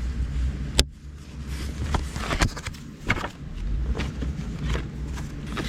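Handling sounds of small objects being moved about: one sharp click about a second in, then scattered lighter taps and rustles, over a low steady rumble.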